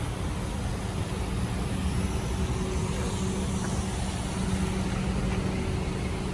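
Steady road and engine noise of a moving car, heard from inside the cabin, with a low hum that grows more distinct about two seconds in.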